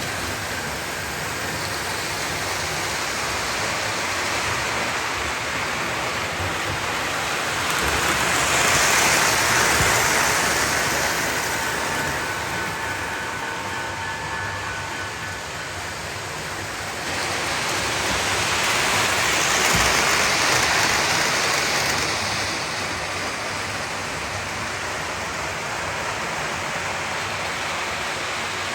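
Lionel O-gauge toy train running around the layout, its wheels and motor making a steady rolling noise on the track. The noise grows louder twice as the train comes past, about ten seconds apart.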